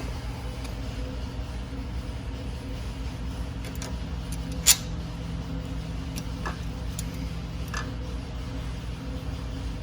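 A few light metallic clicks and taps from bolts and small parts being handled and fitted, with one sharp click about halfway through, over a steady low electrical hum.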